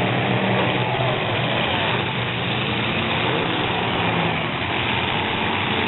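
Full-size derby trucks' engines running in a steady low drone, with no sharp impacts.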